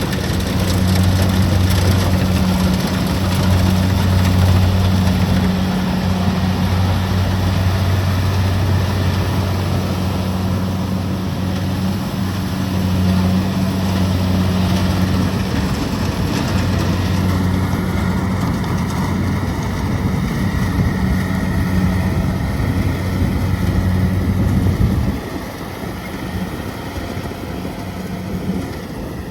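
Kubota DC-70 Plus rice combine harvester's diesel engine running steadily with the mechanical clatter of the machine working. The loud low engine hum drops away abruptly about 25 seconds in, leaving a quieter mechanical sound.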